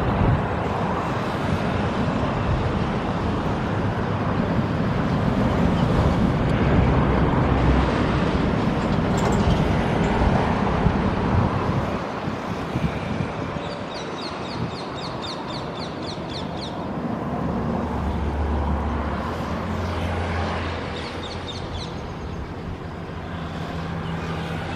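DEMU train running away along the track, a steady rumble of engine and wheels that drops back about halfway through. Birds call over it, including a quick run of chirps.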